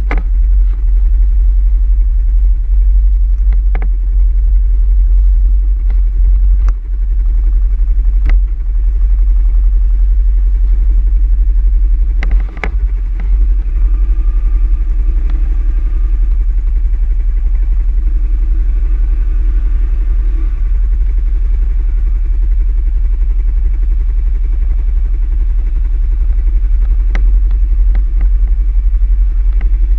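ATV engine running on the move over a heavy, steady low rumble, with scattered sharp knocks.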